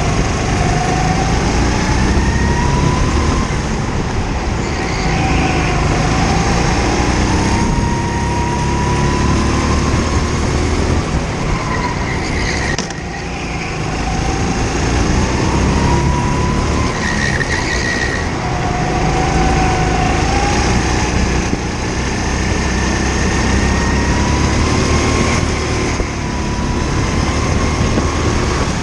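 Indoor go-kart engine heard onboard, revving up again and again on the straights and dropping back as the kart slows into corners: the pitch climbs steadily about seven times, each climb falling away with a brief lift.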